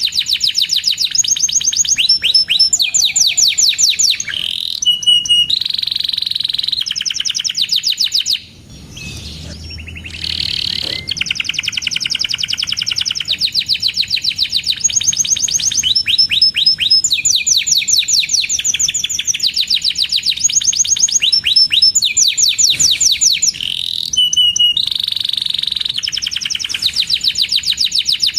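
Domestic canary singing a long, continuous song of rapid trills and repeated chirps, with a brief pause about eight seconds in.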